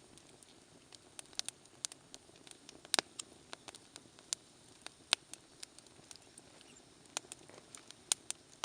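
Wood campfire crackling: irregular sharp pops and snaps, a few a second, with several louder snaps scattered among them over a faint hiss.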